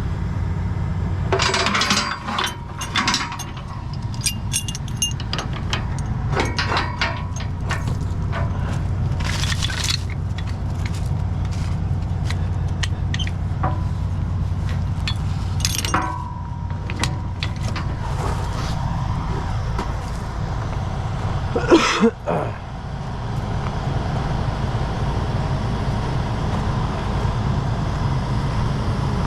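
Heavy truck diesel engine idling steadily, with scattered metallic clinks and clanks of rigging chain and hooks, the loudest clank about 22 seconds in.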